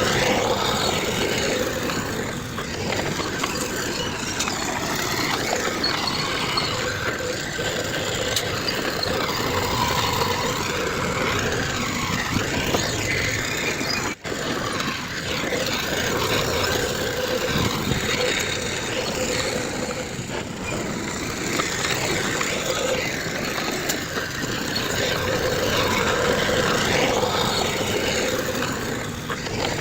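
Diesel engines of heavy earthmoving machinery running steadily at a work site. The sound cuts out for a moment about halfway through.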